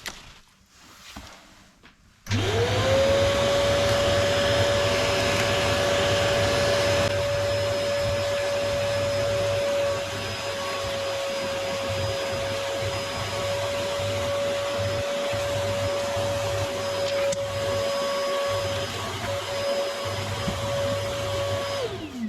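Vacuum cleaner switched on about two seconds in, its motor spinning up to a steady high whine. It runs a little quieter after about ten seconds, then is switched off near the end and winds down with a falling pitch.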